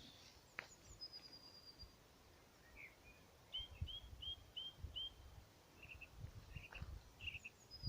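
Songbirds singing faintly: a high thin trill about a second in, then a run of five quick repeated notes, then a few more chirps near the end, over soft low thumps.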